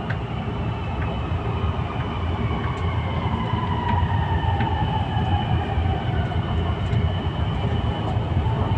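MRT-3 CRRC Dalian light-rail train heard from inside the car as it accelerates away from a station: a low wheel-and-track rumble with an electric traction whine whose pitch rises, then slides down partway through.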